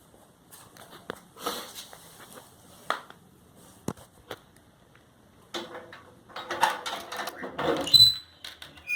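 Metal clanking and rattling as the iron-wheel stove's door and mesh screen are handled and opened, with scattered knocks at first and a denser clatter in the second half, ending with a short metallic ring.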